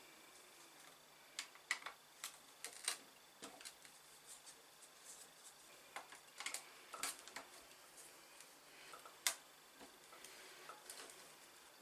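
Faint, irregular clicks and ticks of small tools and hard plastic parts as the rear diff cover of a Tamiya TT-02 RC car chassis is unscrewed and taken off. The clicks come in small clusters, with the sharpest one about nine seconds in.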